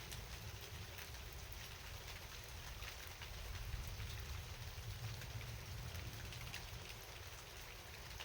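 Steady rain falling, an even hiss with scattered drop ticks, over a low rumble.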